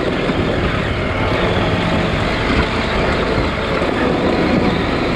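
KTM 890 Adventure R's parallel-twin engine running under load on a rough dirt trail, steady and loud, mixed with wind and ride noise on the helmet microphone.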